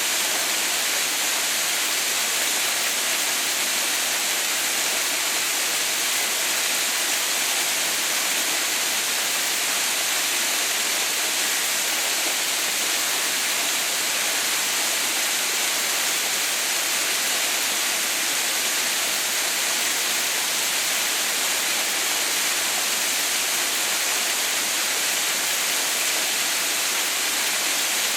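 Steady rushing and splashing of a small mountain waterfall, a constant hiss heaviest in the high end, with no change throughout.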